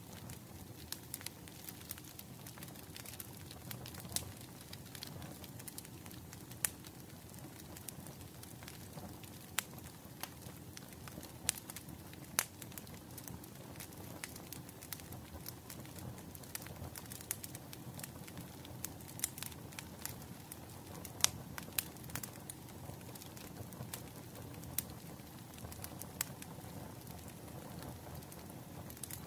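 Wood fire crackling: a steady low rumble with frequent irregular snaps and pops, a few noticeably louder than the rest.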